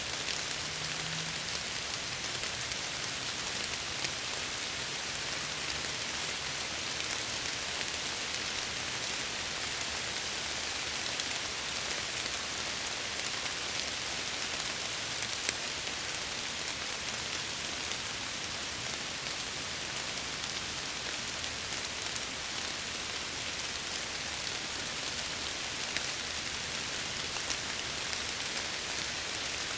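Steady heavy rain pattering against window glass, an even hiss with occasional sharper drop ticks.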